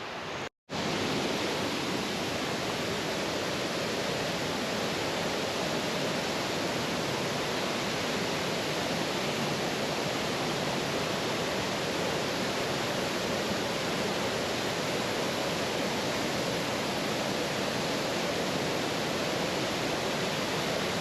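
Steady rushing of a waterfall, even and unbroken, after a brief cut-out of all sound about half a second in.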